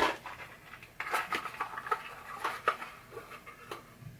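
Small metal screws clinking and rattling together as they are picked through by hand, a quick irregular run of light clicks.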